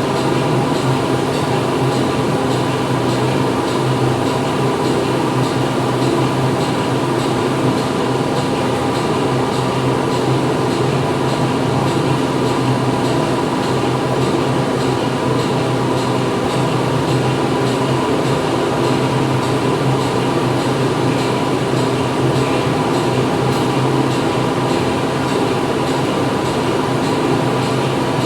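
Factory machinery running steadily: a constant mechanical hum made of several steady tones over an even wash of noise.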